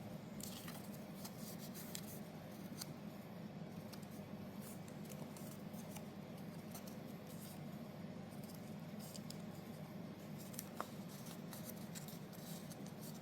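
Paper pockets being folded and handled by hand: faint scattered crinkles and taps of cardstock over a low steady hum.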